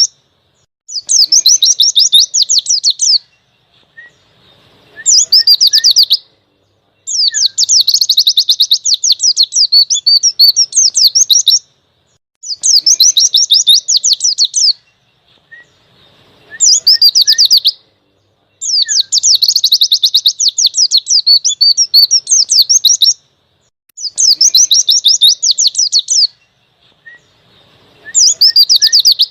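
White-eye (pleci) singing in fast, high-pitched chattering trills, delivered in repeated bursts of about one to four seconds with short pauses between them, the loud, sustained 'ngalas' song style. A few faint single chirps fall in the pauses.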